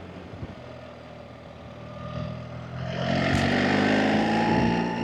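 BMW R 1300 GS Adventure's boxer twin engine running at a steady, modest pace, then accelerating from about two seconds in with its pitch climbing and getting much louder. It drops back sharply just before the end as the throttle is eased.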